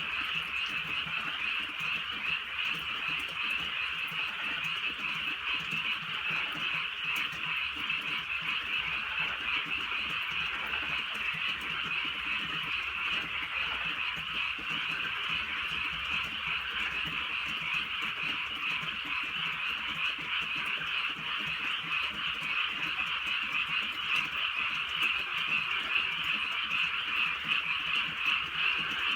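A chorus of many frogs calling at night, dense and continuous, with the calls blending into one steady sound.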